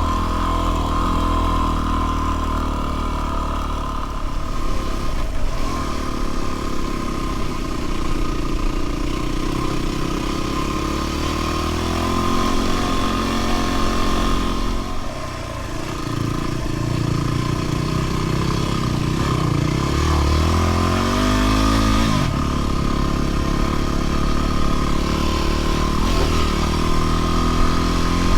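Dual-sport motorcycle engine running under way, its pitch rising and falling with the throttle and dipping briefly about fifteen seconds in, with a steady high whine over it.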